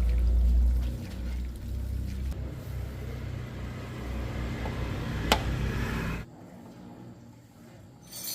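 A motor vehicle's engine rumbling low. There is a sharp click about five seconds in, and the sound cuts off suddenly about a second later.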